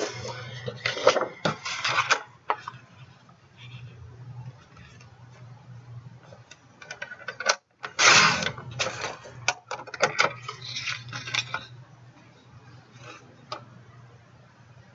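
Cardstock being handled and cut to size, heard as two clusters of scrapes, rustles and sharp clicks, the louder one about eight seconds in, over a faint steady low hum.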